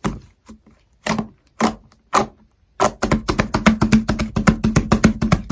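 Slime being pressed and worked by hand, making sharp popping clicks: a few single pops about half a second apart, then a fast run of pops at about seven a second over the second half.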